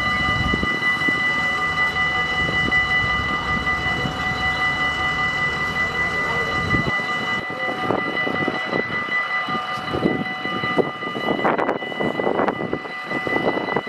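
Train running with a steady whine made of several high tones, over a low rumble that cuts off about seven seconds in; people's voices after that.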